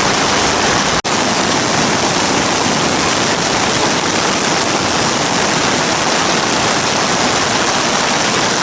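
Loud, steady rush of water, even and unbroken, from the rainstorm and swollen river around the campsite. The sound briefly cuts out about a second in, then carries on the same.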